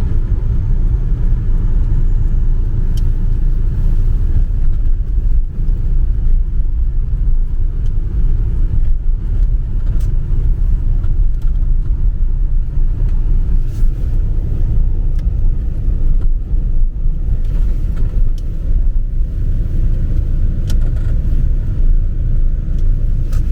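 A car driving, with a steady, loud, low rumble of engine and road noise.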